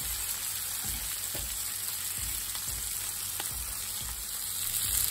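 Prawns and squid rings sizzling steadily as they fry in oil in a pan, with a few faint taps of the spatula.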